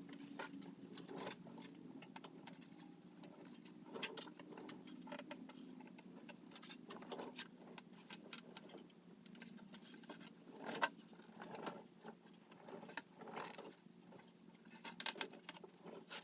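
Faint room tone: a low steady hum with scattered light clicks and taps, the loudest a little under eleven seconds in.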